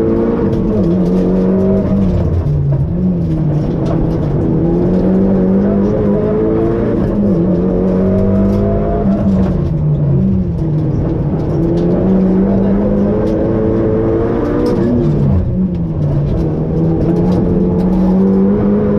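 Rally car's engine heard from inside the cabin, accelerating hard through the gears: its pitch climbs, then drops at each gear change, several times over, along with the car's road noise.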